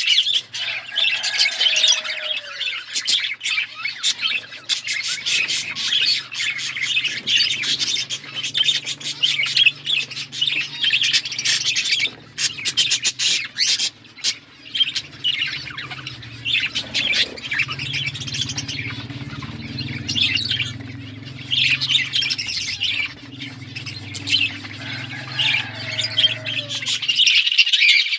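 A flock of budgerigars chattering and squawking, a dense, fast warbling chatter with sharp calls mixed in. A low steady hum runs underneath and stops near the end.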